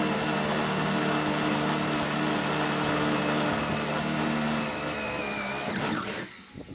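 Electric power tool motor running steadily with a high whine, then winding down near the end.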